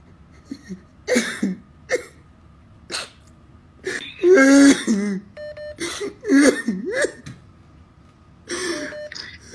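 A person coughing and clearing their throat: several short sharp coughs in the first few seconds, then short voiced sounds without words.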